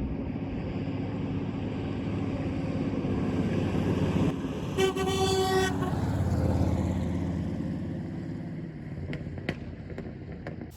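Vehicle engine running steadily, with a single horn toot lasting about a second, about five seconds in.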